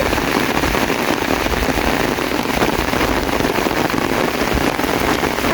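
Heavy rain falling steadily: a loud, dense patter of countless drops hitting surfaces.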